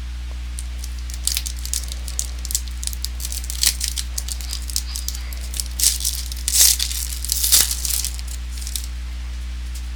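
Trading cards and foil pack wrappers being handled: irregular crinkling, rustling and light clicks, loudest in a few bursts around the middle, over a steady low electrical hum.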